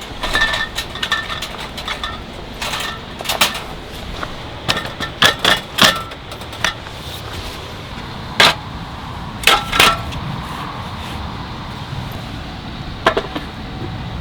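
Steady low wind rumble, with scattered sharp clicks and knocks of objects being handled, several in quick clusters.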